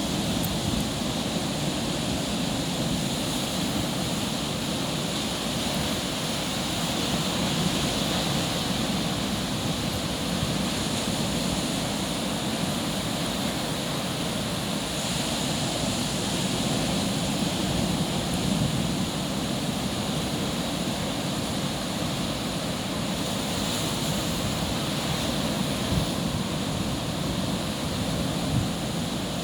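Ocean surf breaking steadily on a sandy beach, a continuous wash of waves with only slight swells in loudness.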